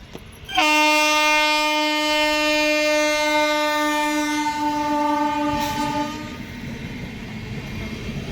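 Train horn sounding one long, steady blast of about five and a half seconds, starting about half a second in. As it stops, the rumble and rattle of the train running on the tracks takes over and grows louder.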